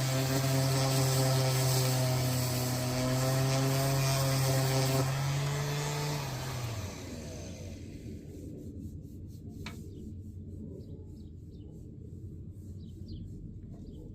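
An electric power tool motor running steadily with a hum and hiss, then switched off about six seconds in and winding down in pitch to a stop, leaving a quiet background with a few faint ticks.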